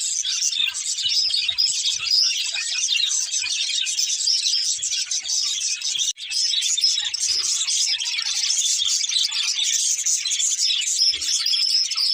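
Several budgerigars chirping and warbling at once in a dense, unbroken chatter, with a split-second gap about halfway through.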